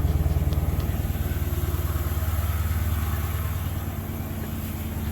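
A 2013 Dodge Charger Pursuit's 5.7 Hemi V8 idling just after a cold start, with its exhaust cutouts closed. It is a steady low rumble that gradually gets quieter.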